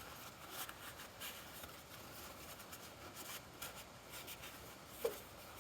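Faint rustling and rubbing of paper towels wiping up spilled engine oil, in irregular short strokes, with one short thud near the end.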